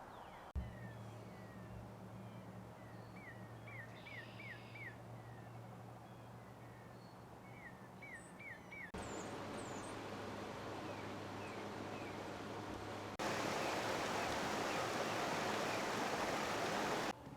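Outdoor ambience in several cut-together segments: small birds chirping in quick runs of four or five short sweeping notes over a faint steady low hum. After a cut about 13 seconds in, a louder, even rushing noise takes over for about four seconds.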